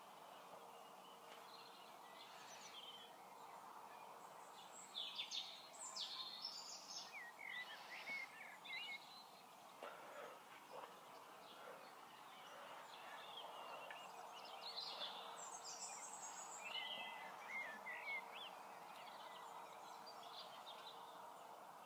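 Faint outdoor birdsong: scattered chirps and short warbling phrases in two spells, over a quiet background hiss, with a faint steady hum underneath.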